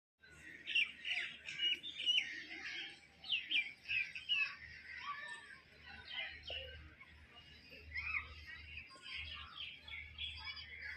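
Many birds chirping and calling at once, with louder chirps and whistles in the first few seconds followed by a steadier, fainter chatter.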